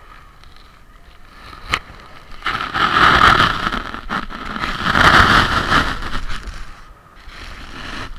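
Waves washing up the beach: two loud swells of rushing water, one after the other, with a sharp click a little before the first.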